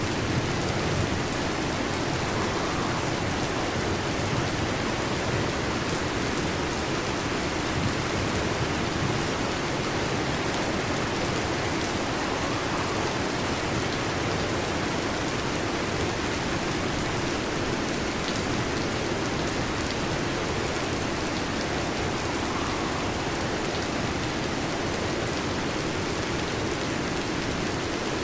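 Heavy rain falling steadily on a metal roof, an even dense patter with no thunderclap.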